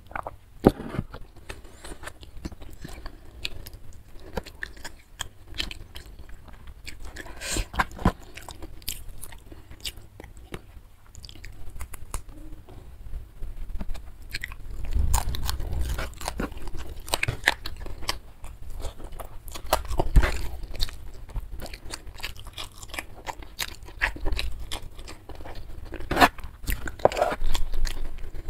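Close-miked eating sounds: wet chewing, biting and lip smacks as rice and squid are eaten by hand, with irregular clicks and crunches throughout. A sharp knock right at the start as a drinking glass is set down.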